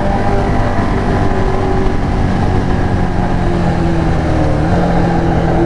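Yamaha XJ6's inline-four engine running under way through an aftermarket Atalla exhaust, loud and steady, its pitch easing down in small steps.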